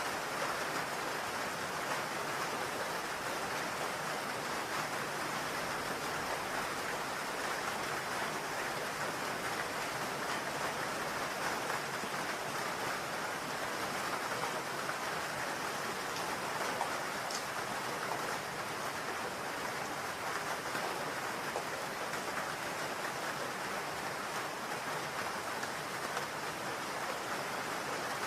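Steady rain falling on a roof, an even patter.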